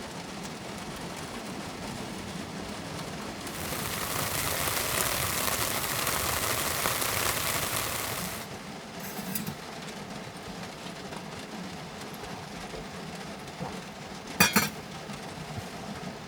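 Steady hiss of rain, with a louder rush of noise for about five seconds in the middle, and a few light clinks near the end.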